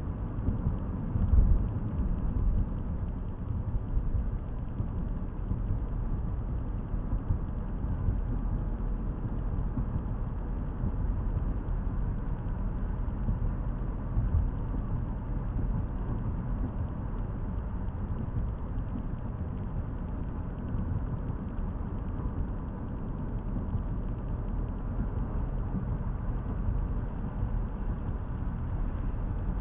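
Steady low rumble of a car's engine and tyres, heard from inside the cabin through a dash camera's microphone, with a single low bump about a second and a half in.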